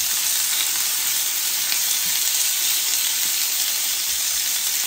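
Diced chicken breast sizzling steadily in hot olive oil in a frying pan as it browns.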